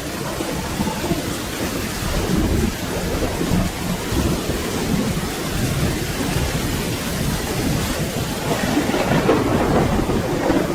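Steady rain with low, rolling thunder rumbling beneath it, the rumble swelling louder near the end.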